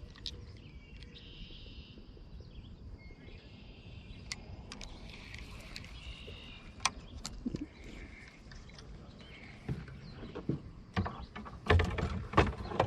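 Small knocks and clicks of gear and people shifting in a canoe, over a low steady outdoor haze. A run of louder knocks against the hull comes near the end.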